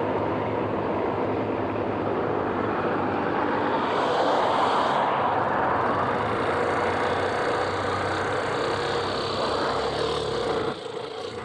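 Steady rush of wind and road noise on a moving motorcycle, with a fast heavy vehicle, likely a truck, passing close by; the noise drops sharply near the end.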